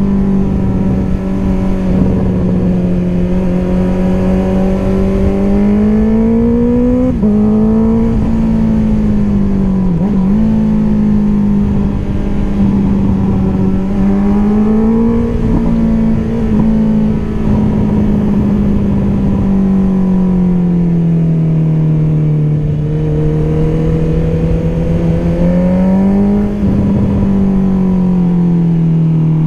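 Honda CBR650R's inline-four engine through an Akrapovic exhaust, running steadily under way with its pitch rising and falling gently with the throttle. About seven seconds in the pitch climbs and then drops sharply, and about ten seconds in it dips briefly and recovers.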